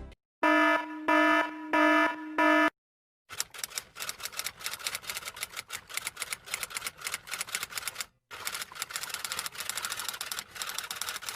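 Four short electronic beeps at an even pace, then fast, irregular typing clicks that run on with one short break.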